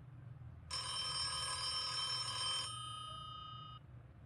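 Telephone ringing once, for about two seconds starting about a second in, then dying away: an incoming call.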